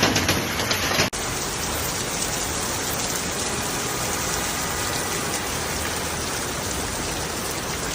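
Hailstorm downpour. For about the first second it is a dense clatter of many small impacts. After an abrupt cut it becomes a steady, even hiss of falling precipitation.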